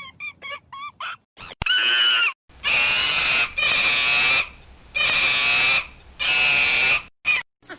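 A monkey screeching: one long harsh call, then four harsh calls of about a second each, evenly spaced. A few short high chirps come before them in the first second.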